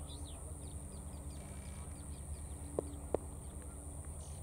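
Small birds chirping in short falling calls over steady outdoor background noise, with two sharp knocks in quick succession about three seconds in.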